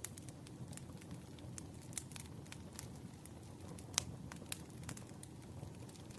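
Wood fire burning, a low steady rumble with frequent irregular crackles and pops, one sharper pop about four seconds in.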